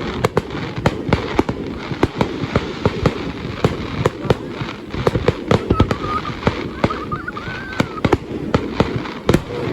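Fireworks going off in quick succession: many sharp bangs and crackles a second over a continuous low rumble. A faint wavering tone sounds midway.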